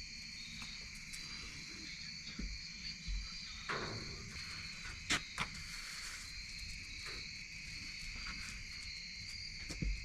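Steady chorus of crickets chirring in high, continuous bands, with a few light knocks and rustles of handling scattered through it.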